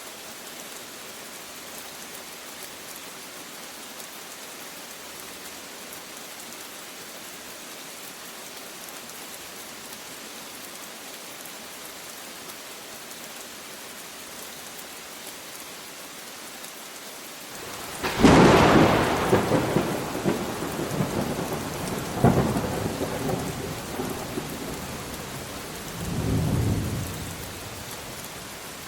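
Steady rain falling, with a sudden loud thunderclap about 18 seconds in that rolls on as rumbling, cracks again a few seconds later, and ends in a low rumble before only the rain is left.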